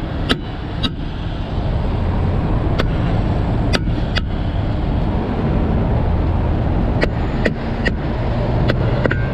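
Steady low vehicle engine rumble, with a dozen or so short sharp clicks scattered through it.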